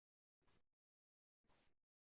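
Near silence: faint short puffs of hiss about once a second, with dead silence between them.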